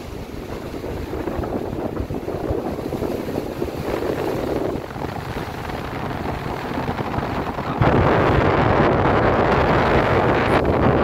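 Strong wind buffeting the microphone over the rushing of sea waves aboard a ship under way. The noise jumps louder about eight seconds in.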